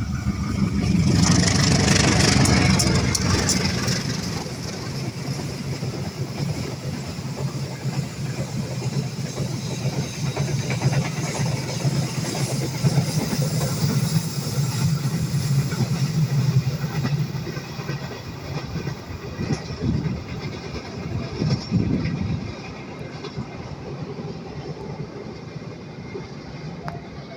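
Diesel train passing close by: the locomotive is loudest about two seconds in, then the carriages roll past with a steady rumble and wheel clicks, dropping away after about twenty-two seconds.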